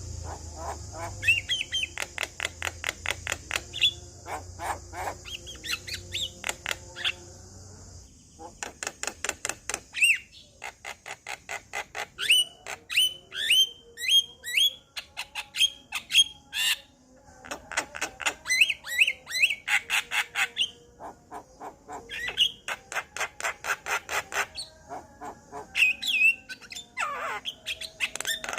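Male Javan myna singing: long bursts of rapid clicking chatter mixed with rising whistled notes, with short pauses about eight and twenty-one seconds in.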